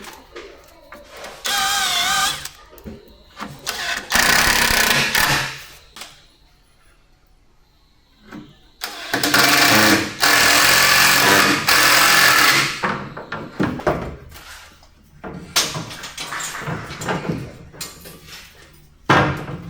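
Power tool working wood in several bursts of a few seconds each, one with a wavering whine, with knocks and clatter of handled timber between them.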